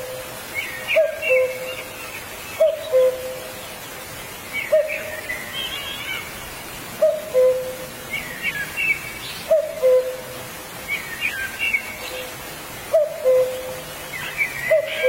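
Birds calling. A low two-note call, the first note slightly higher than the second, repeats every two seconds or so. Short, busy higher-pitched chirping phrases come in between.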